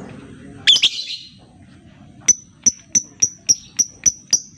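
Lovebird calling: a loud, harsh squawk about a second in, then from about halfway a run of short, sharp chirps repeated evenly about four times a second.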